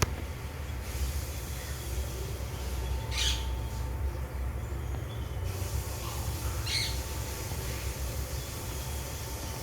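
Two short bird calls about three and a half seconds apart, over a steady low rumble.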